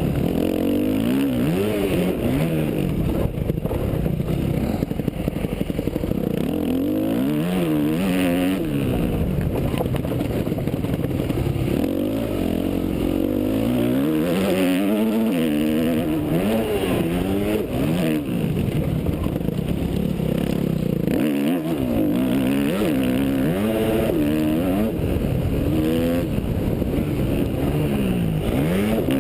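Yamaha YZ250F motocross bike's four-stroke single-cylinder engine being ridden hard. Its pitch climbs and drops again and again as the throttle is opened and shut.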